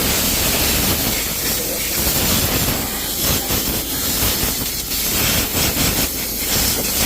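Loud, steady hiss of a cleaning spray jet in a car's engine bay, wavering a little in strength.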